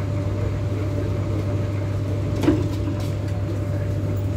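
MTR K-Train electric multiple unit heard from inside the car as it pulls into a station and comes to a stop: a steady low rumble with a faint even whine from the traction equipment, and a single knock about two and a half seconds in.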